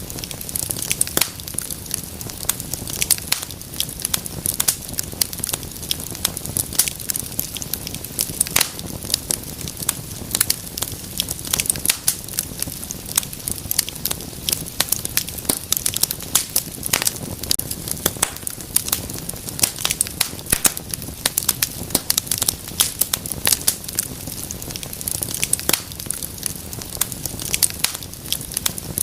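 Wood fire burning in a fireplace, with dense, irregular sharp crackles and pops over a steady low rumble of the flames.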